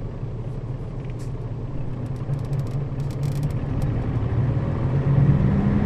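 Nissan Diesel KL-RA552RBN route bus's diesel engine running under way, heard inside the passenger cabin as a steady low drone. It grows louder over the last couple of seconds, with a run of faint clicks a little past the middle.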